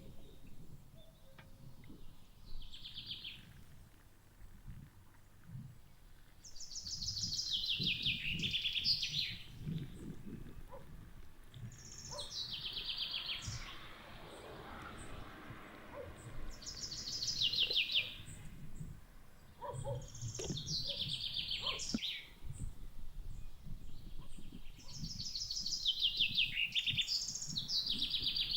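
A songbird singing the same short song again and again, six or so times: each one is a fast run of notes that slides downward over about two seconds. Faint low rumble and a few small clicks sit underneath.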